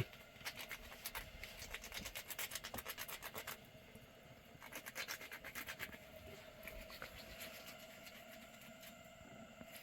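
Quick, evenly repeated scraping strokes, several a second, in two bouts with a short pause between.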